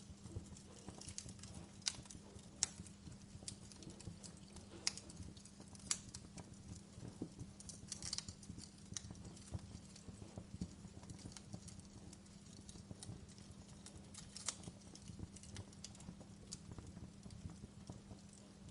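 Logs burning in a fireplace, crackling with irregular sharp pops and snaps over a low steady background.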